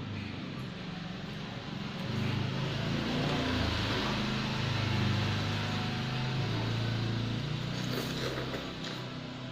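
A motor vehicle passing by. Its engine noise swells over a few seconds, peaks in the middle and fades away.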